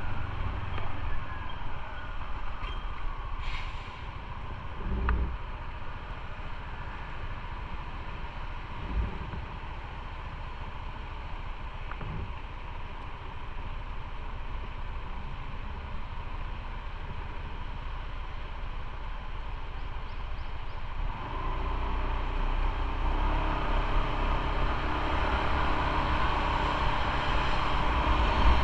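Motorcycle on the move: a low engine and road rumble under wind noise on the microphone, with a few faint knocks. The noise grows louder over the last several seconds.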